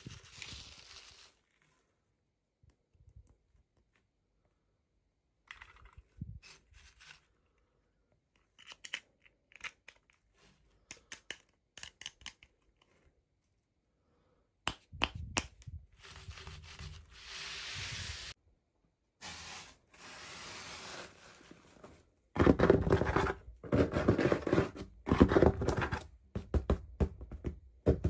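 Toy packaging being handled and torn open by hand. It starts as scattered small clicks and crinkles, then turns into longer rustling and tearing, which is loudest and most continuous over the last six seconds.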